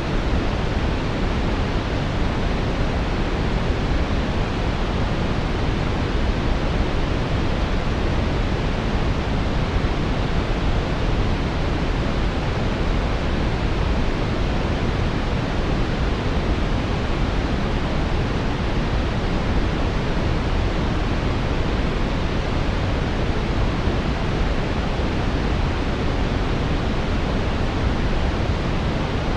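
Synthetic brown noise: a steady, deep rushing hiss, strongest in the bass, without any change or interruption.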